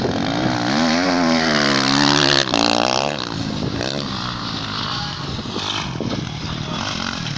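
Motocross dirt bike engine revving, its pitch rising and falling several times in the first three seconds, then running more evenly.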